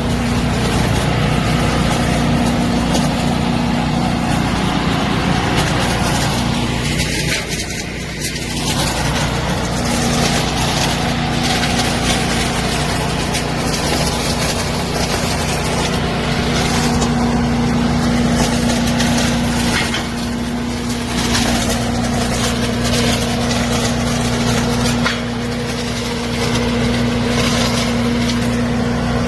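Truck-mounted leaf-cleaning machine running steadily: a loud engine drone with a steady whine over it, easing off briefly about seven seconds in.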